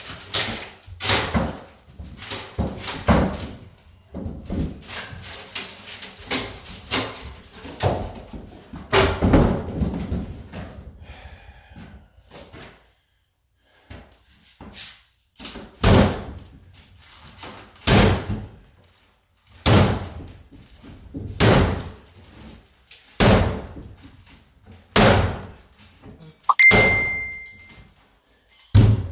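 Pickaxe blows breaking apart a cabinet: a fast, irregular run of strikes and crashes, then a short pause and slower blows spaced evenly about every second and a half. Near the end a steady high beep sounds for about a second.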